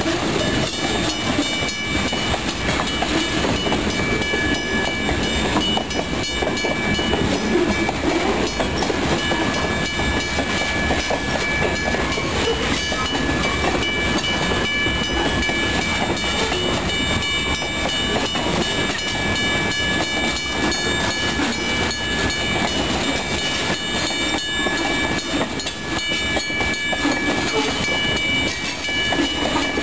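Railroad cars rolling past at speed, steel wheels clicking over the rail joints under a steady rumble, with a few steady high-pitched tones running through it.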